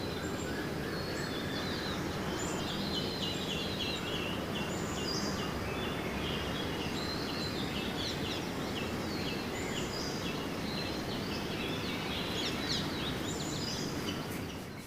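Birds calling in a dawn chorus: many overlapping short chirps and whistles over a steady low background rumble.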